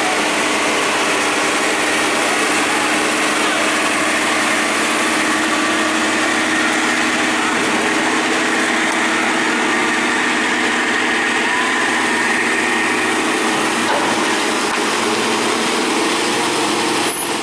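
Truck engine running steadily, mixed with dense even road noise.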